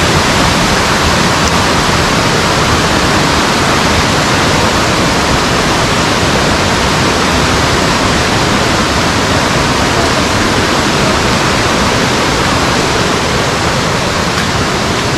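Rushing water from the waterfall's stream, a loud, steady, unbroken roar.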